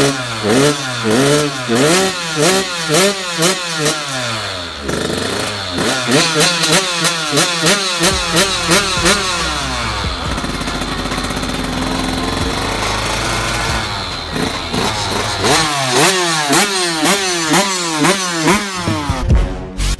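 KTM 85 SX two-stroke single-cylinder dirt bike engine being revved in quick repeated blips, the pitch rising and falling about twice a second, with a steadier held stretch in the middle.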